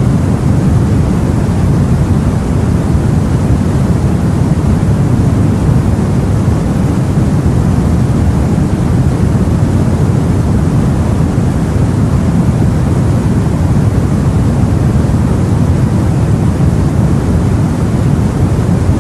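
Steady, deep rumbling wash of open sea and wind, with no distinct waves or other events standing out.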